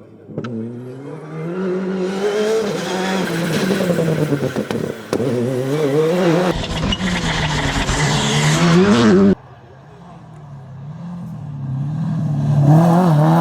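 Rally car engine revving hard at speed, its pitch climbing and dropping again and again as it shifts through the gears, cutting off suddenly about nine seconds in. Another rally car's engine then comes in quietly and grows louder toward the end.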